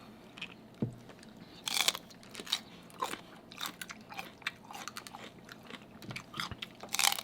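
Close-miked eating of shellfish: crackling, crunching bites and chewing, with two louder crunchy bursts about two seconds in and near the end.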